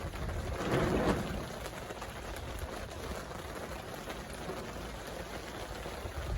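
Rain falling steadily, an even hiss of drops on surfaces, with a brief louder swell about a second in.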